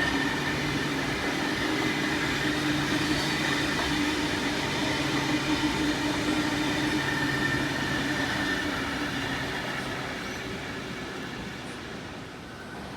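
A train running past on the tracks, a steady rumble with a few held tones, fading away near the end.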